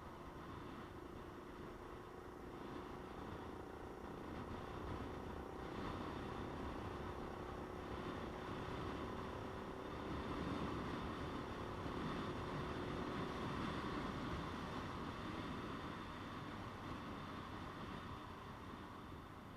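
Motorcycle under way on the road: a steady engine note under wind and tyre noise, growing louder through the middle and easing off near the end.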